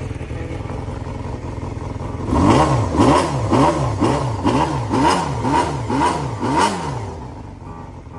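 Honda Jade 250's four-cylinder engine idling, then blipped rhythmically about twice a second, nine rises and falls in pitch, in the style of a bōsōzoku throttle 'call', before dropping back to idle near the end.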